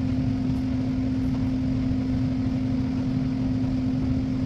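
Steady low hum of a running machine, a constant low tone over a rumble.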